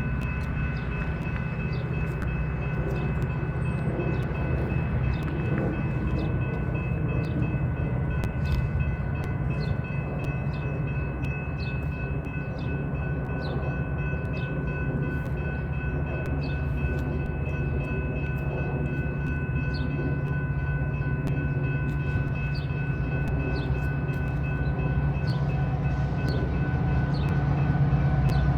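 A train rolling through, with a steady low rumble that builds toward the end. A steady ringing tone holds over it, and faint regular clicks sound throughout.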